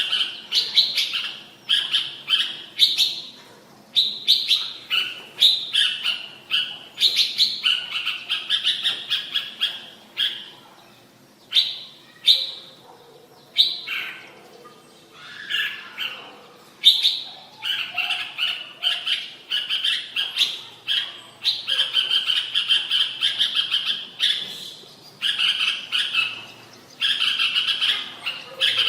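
Red-whiskered bulbul singing: short, fast, warbling phrases given one after another with brief pauses between them.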